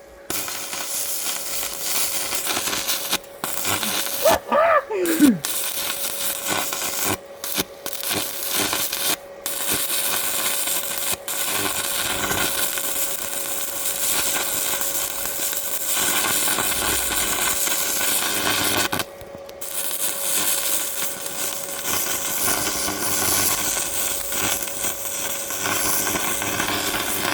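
Electric arc welding: a steady crackle from the arc, stopping for moments several times and starting again, with the longest break about two-thirds of the way through.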